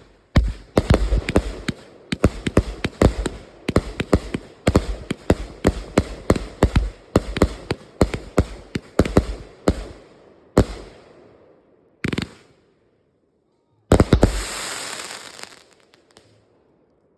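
Consumer firework cake (multi-shot aerial repeater) firing a rapid volley of sharp shots, about three a second, that thins out after about ten seconds. A lone shot follows, then a final loud shot with a hissing, crackling tail.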